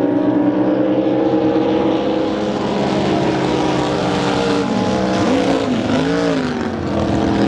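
Racing drag boat engine running steadily, with a few quick blips up and down in pitch about two-thirds of the way through.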